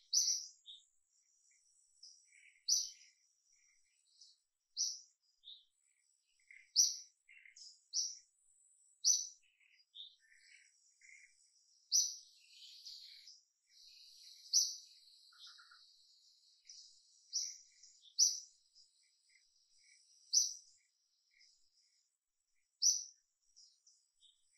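Wild birds calling: short, sharp, high chirps repeating every second or two, over a steady high insect drone that grows stronger about halfway through.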